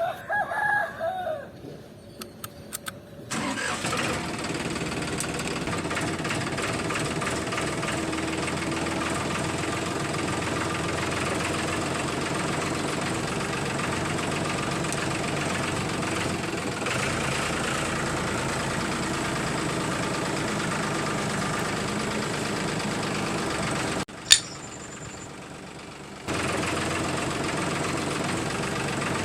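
A motor starting up after a few clicks, then running steadily. Near the end it stops after a sharp click and starts running again about two seconds later.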